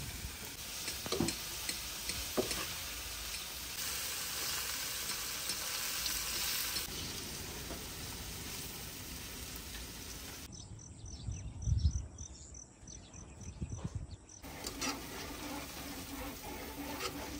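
Squid rings deep-frying in hot oil, a steady sizzle with a few light clicks. For about four seconds in the middle the sizzle drops away and a few low thumps are heard.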